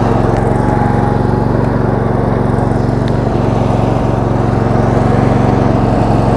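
The 22 hp Briggs & Stratton V-twin engine of a Roper lawn tractor running at a steady speed while it drives along a trail.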